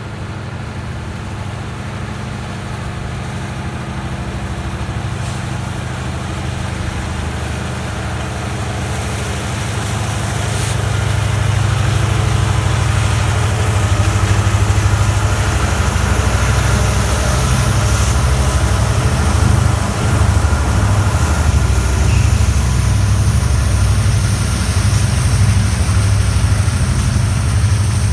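Norfolk Southern freight train passing, growing louder over the first dozen seconds and then holding as a steady low rumble.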